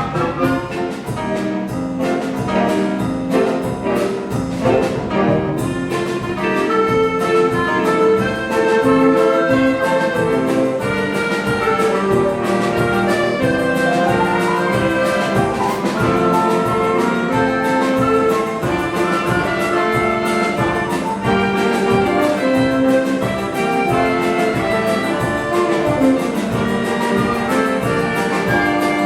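A children's brass wind band playing a medley of cartoon songs, with a steady beat; the sound gets fuller and brighter about five seconds in.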